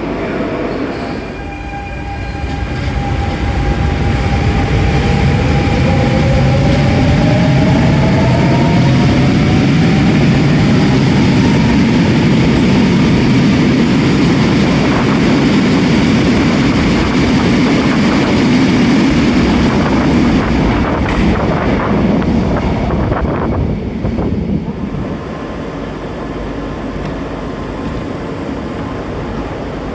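RER A electric commuter train running through the station, loud and rumbling, with traction-motor whine rising in pitch as it gathers speed. The sound eases off a little over twenty seconds in.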